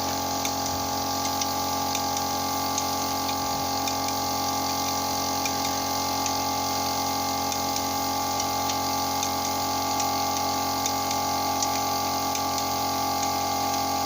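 Steady machine hum made of several fixed tones, unchanging throughout, with faint scattered ticks on top.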